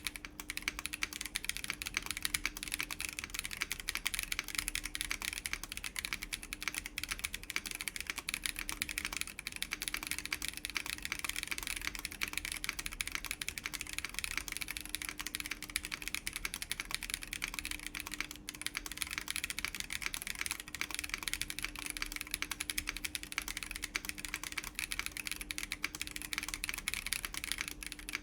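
Continuous steady typing on a Chilkey ND104 mechanical keyboard fitted with factory-lubed WS BigLucky tactile switches, a gasket-mounted FR4 plate and PBT doubleshot keycaps: a dense run of key clacks with no pauses.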